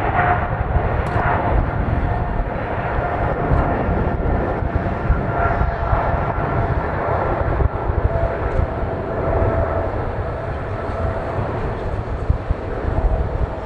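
Jet airliner engines at takeoff power: a steady rumble with a whining tone held above it.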